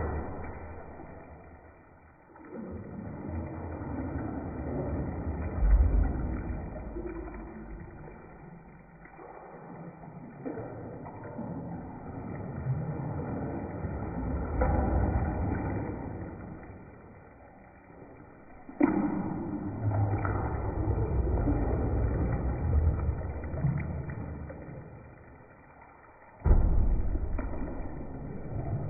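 Bathwater sloshing in waves in a bathtub, swelling and dying away several times, with two sudden loud surges, about two-thirds of the way through and near the end.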